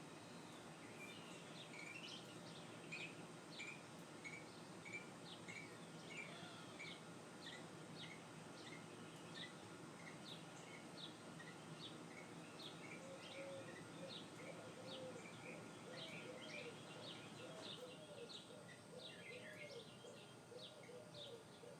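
Faint rhythmic animal calls: a steady run of short, high chirps repeating about once or twice a second. From a little past halfway a lower call joins in, repeating at an even rhythm. The recorder takes the source for an owl.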